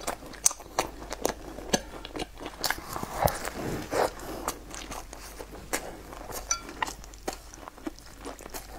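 Mouthfuls of a crusty, egg-filled flatbread being bitten and chewed close to the mic: a steady run of crisp crunches and wet mouth clicks. A brief high-pitched squeak comes about six and a half seconds in.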